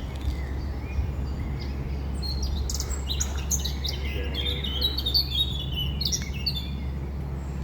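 Small songbirds chirping and singing in many short, high notes, over a steady low rumble.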